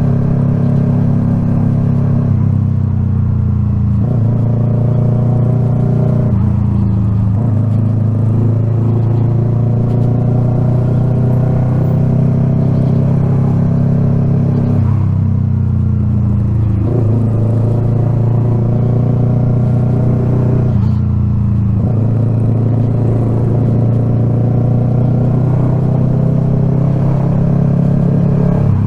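Yamaha R3's parallel-twin engine running under way, a steady engine note that drops and rises in pitch several times as the throttle changes.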